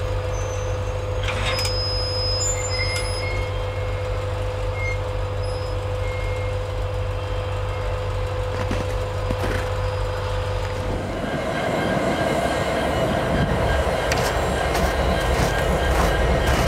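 Slow freight train rolling past: the cars make a steady low rumble with a held squeal. About eleven seconds in the squeal stops and the sound grows fuller and louder as the diesel locomotives draw near.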